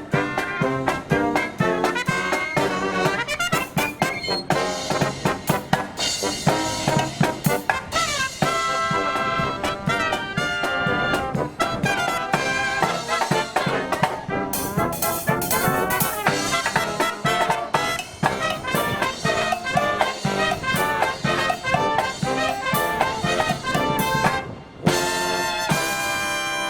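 Marching brass band playing, with trumpets, trombones and drums, while wind buffets the microphone. Near the end the band breaks off briefly, then holds a long chord.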